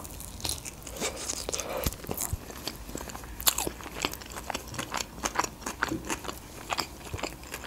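A woman biting into and chewing a baked sushi-pizza roll topped with melted cheese and orange fish roe, with many small, crisp, wet mouth clicks.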